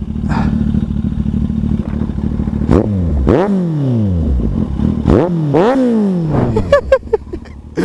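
Kawasaki Z800 inline-four idling through an aftermarket Ixil exhaust with its dB killer removed, then blipped twice, the pitch shooting up and falling back each time, about three and five seconds in. The exhaust is very loud, 'übertrieben laut', with the baffle out.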